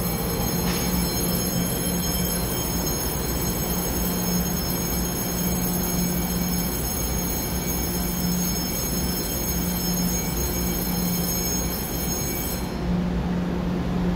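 EMU900 electric commuter train running along an underground station platform as it pulls out: a steady rumble of wheels and running gear with a low hum that swells and fades, echoing in the enclosed station.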